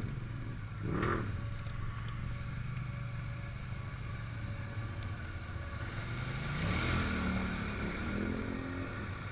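Off-road vehicle engine running steadily at low revs, revving up and settling back about seven seconds in.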